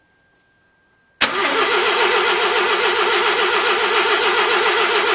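1985 Mazda RX-7 GSL-SE's 13B rotary engine being cranked over by the starter. It starts suddenly about a second in and runs steadily with a fast, even warble, never catching and revving up.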